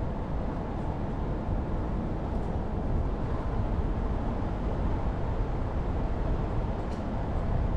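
Jeep Renegade driving along a mountain forest road: a steady mix of engine and tyre-on-road noise.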